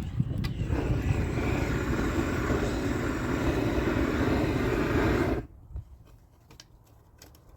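Gas torch flame roaring steadily while heating isogam bitumen membrane for waterproofing, shut off abruptly about five and a half seconds in.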